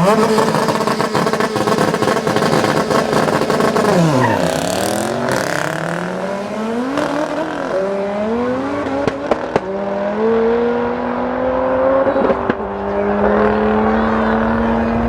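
Tuned car engine at high revs. Its pitch drops sharply about four seconds in, then climbs again in steps as it accelerates through the gears, with a few sharp pops from the exhaust along the way.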